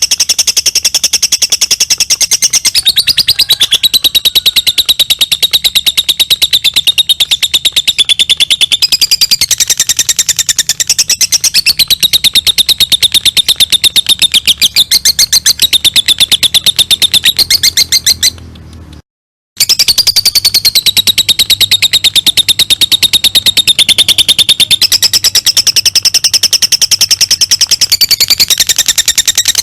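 Lovebird giving its long 'ngekek' call: a loud, clear, continuous chattering trill of very fast repeated high-pitched notes. It cuts off abruptly about two-thirds of the way through, then starts again after a moment's silence.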